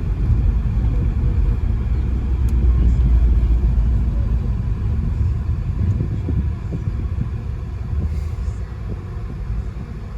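Audi A6 being driven under throttle, its engine and road noise rumbling; it grows loudest a couple of seconds in, then eases off.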